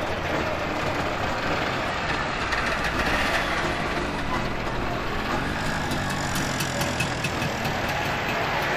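Classic East German cars, among them two-stroke Trabants, running and pulling away slowly one after another, a steady mix of small engines.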